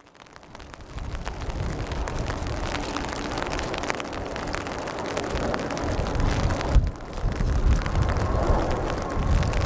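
Rain and wind noise with a low rumble, fading in over the first second. Near the end a slowly rising whine comes in, the engines of an approaching jet airliner on landing approach.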